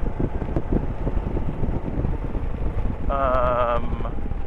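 Wind buffeting and rumbling on a helmet-mounted camera microphone while riding a motorcycle, with the engine underneath it. About three seconds in, a short wavering tone sounds for under a second.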